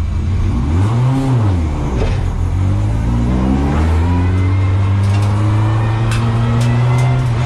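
Ford Fiesta ST150 race car's four-cylinder engine heard from inside the cabin as it pulls away at low speed: a quick rev that rises and falls about a second in, then a steady drone slowly rising in pitch. A few sharp clicks and rattles come near the end.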